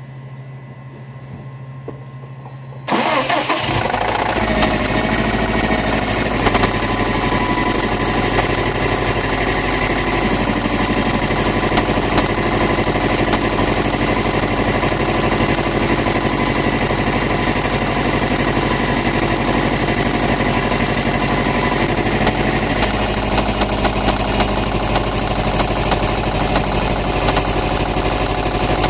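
2008 Subaru Impreza WRX STI's turbocharged 2.5-litre flat-four starting suddenly about three seconds in, after a faint steady hum, then idling with a steady fast knocking from inside the engine, which the owner takes for rod knock.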